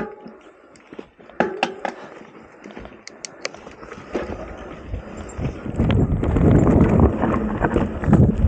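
Mountain bike getting under way: a few scattered clicks and ticks, then tyres rolling over rough trail with the bike rattling, growing louder from about five seconds in.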